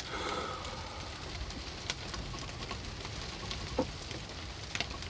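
Rain and sleet falling on a small boat's cabin: a steady hiss dotted with scattered sharp ticks from drops striking.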